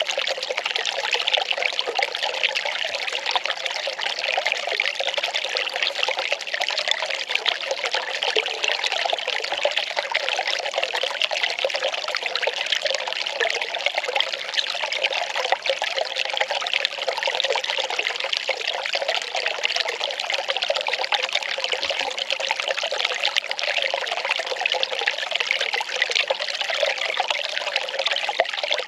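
Well water pouring and trickling steadily, an even splashing that does not change.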